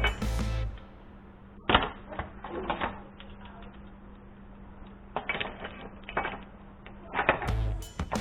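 Irregular sharp clicks and knocks, like hand-tool work, over a steady low hum, with background music at the very start and again near the end.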